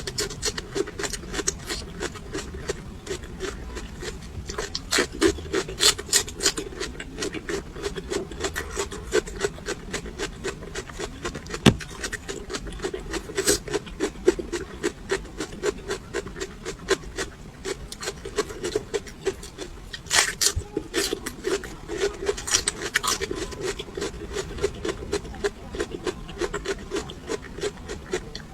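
Crunching and chewing of raw chili peppers: a dense run of rapid, irregular crisp crunches, with one sharper click near the middle.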